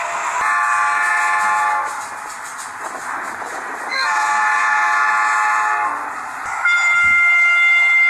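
Train horn sounding two long blasts, each a rich chord of several tones held about a second and a half, with a pause between them. Near the end a different, thinner horn or whistle with only a couple of clear tones starts and holds.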